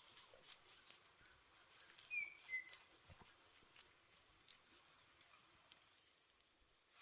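Near silence: faint outdoor ambience with a steady, thin, high-pitched tone, a few faint ticks, and one short falling chirp about two seconds in.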